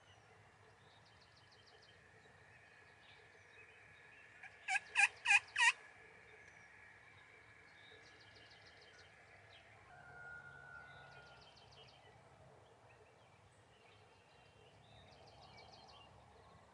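A turkey yelping: a quick run of four loud, sharp notes about 5 seconds in. Faint short songbird trills repeat in the background.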